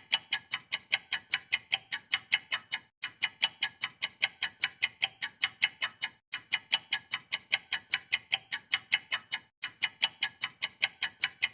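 Rapid, even ticking like a clock sound effect, about six sharp ticks a second, in runs of about three seconds with brief breaks between them.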